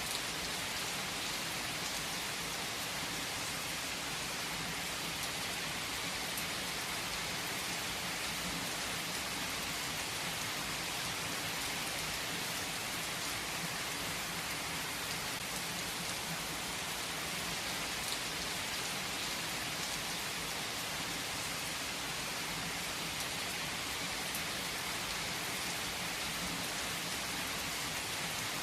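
Steady rain falling on a hard surface: an even, unbroken hiss with a few faint individual drop ticks.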